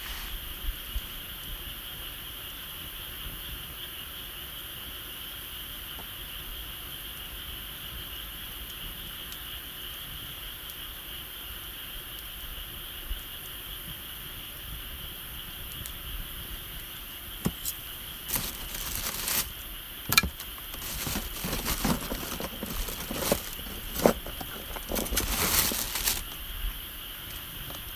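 Outdoor wood fire crackling and popping with irregular sharp cracks, busier in the second half, over a steady high chirring of insects.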